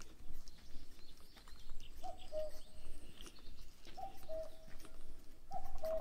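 Forest birds calling. One bird repeats a two-note call, a higher note dropping to a lower one, about every one and a half to two seconds, starting about two seconds in. Fainter, higher chirps from smaller birds sound around it.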